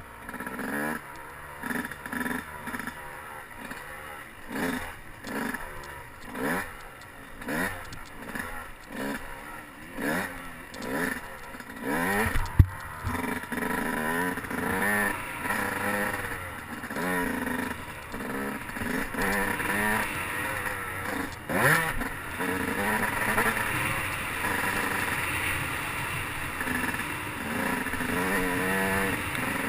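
Dirt bike engine on a motocross track, revving up and easing off over and over, about once a second at first. A single sharp knock comes about twelve seconds in, after which the engine runs more steadily with smaller swings in pitch.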